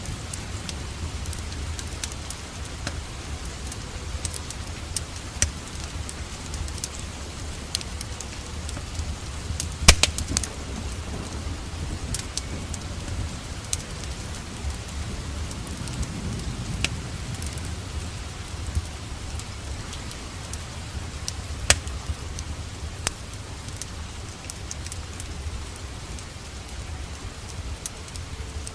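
Steady rain together with a wood fire crackling, with scattered sharp pops. The loudest pops come about ten seconds in and again a little past twenty seconds.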